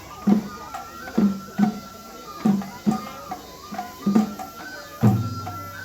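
Festival music accompanying a Japanese lion dance: a drum struck in an uneven rhythm, one to two strokes a second, under a high held wind-instrument melody.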